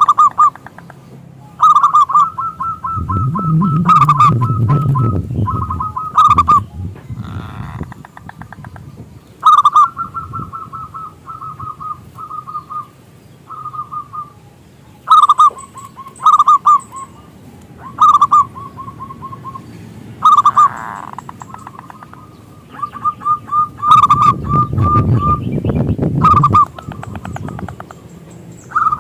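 Zebra dove (perkutut) cooing in repeated phrases of quick, rippling notes, each phrase a second or two long, with short gaps between. A low rumble swells up underneath twice.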